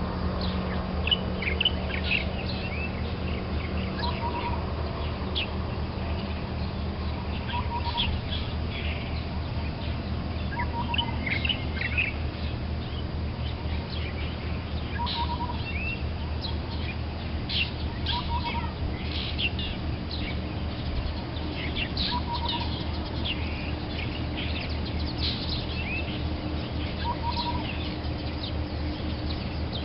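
Several birds chirping with many short high notes, while a lower short call repeats about every three to four seconds. A steady low hum runs underneath.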